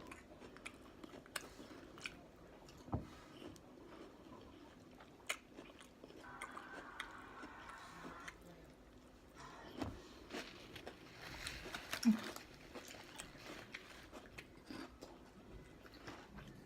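A person biting and chewing a sub sandwich close to the microphone, with scattered small crunches and mouth clicks.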